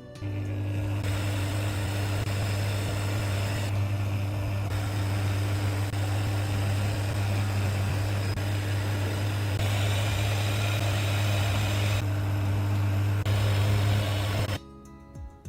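A machine running steadily with a strong low hum and a constant noisy whir over it, cutting off abruptly near the end.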